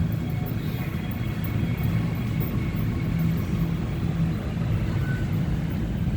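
Bombardier Movia metro train running past, a steady low rumble with a faint high whine from its traction motors.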